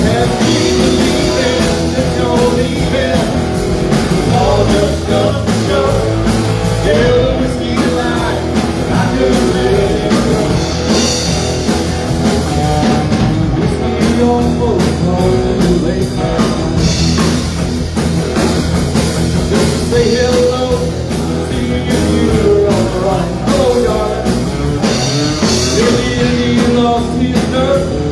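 Live rock band playing a song with drums, bass and guitar at a steady loud level.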